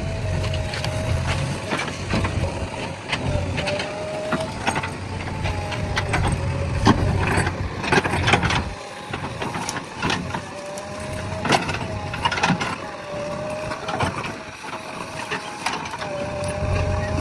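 JCB 3DX backhoe loader working: diesel engine running with a steady, slightly wavering hydraulic whine, and repeated knocks and clatters. The low engine rumble eases off for several seconds midway and comes back near the end.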